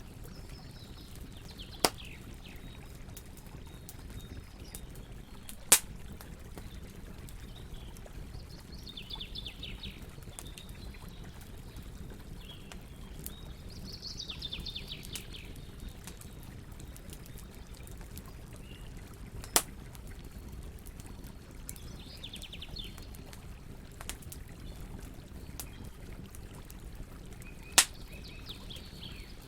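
Wood campfire crackling with small ticks and four sharp pops, over a steady low rush of flowing water. Birds chirp in short falling trills about five times.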